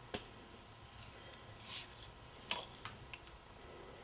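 Faint, sparse clicks and a brief scrape of hands and tools working on the engine while an old drive belt is pulled off.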